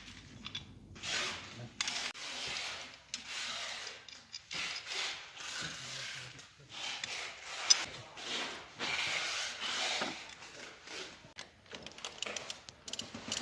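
Repeated rough scraping strokes, roughly one a second, from hand work on a fire-sprinkler water pipe while a quick-connect coupling is being fitted.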